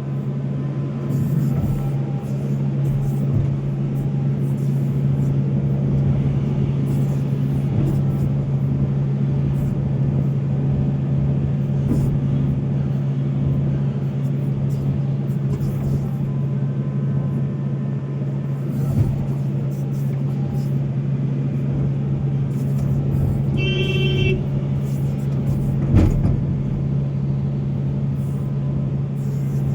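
Volvo excavator's diesel engine running steadily under work, a continuous drone. A short high-pitched tone sounds near the middle, and a single sharp knock follows a couple of seconds later.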